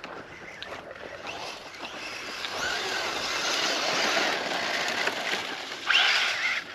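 Losi Tenacity TT Pro electric RC short-course truck running across sand: the brushless motor whines up and down over the hiss of its tyres churning and throwing sand. The sound swells towards the middle, with a sharp louder burst about six seconds in.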